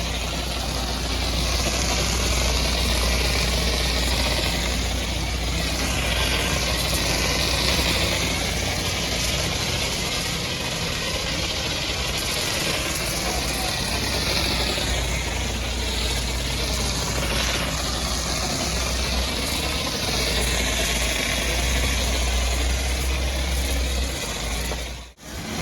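High-pressure washer jet spraying a truck: a loud hiss that swells and fades as the jet sweeps across the surfaces, over a steady low drone. The sound cuts out for a moment near the end.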